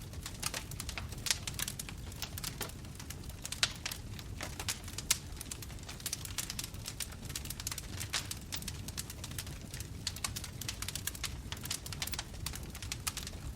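Bonfire crackling: frequent irregular sharp pops and snaps over a steady low rumble of the flames, with a few louder pops in the first five seconds.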